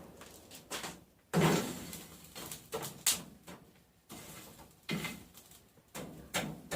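Irregular knocks and clunks of objects being handled in a workshop, spaced about a second apart, the loudest about a second in.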